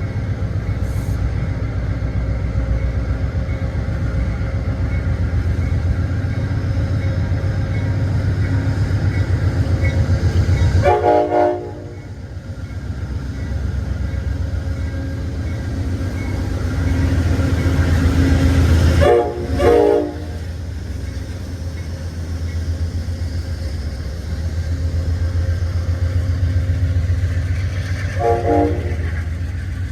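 Diesel locomotive running with a steady low rumble while its air horn sounds: one blast about a third of the way in, two short blasts in quick succession past the middle, and one more short blast near the end.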